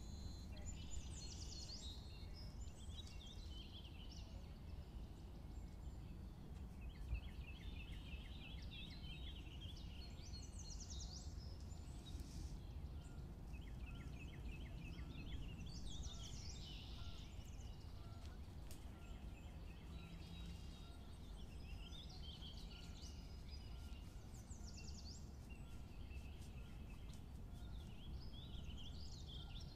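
Songbirds chirping and singing, with several quick trilled phrases, over a low steady background rumble.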